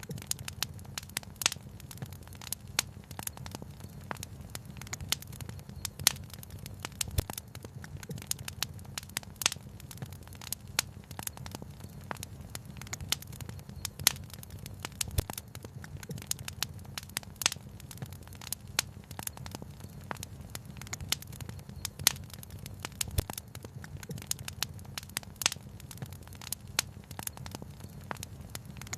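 Wood fire crackling: irregular sharp pops and snaps, several a second, some louder than the rest, over a steady low rumble.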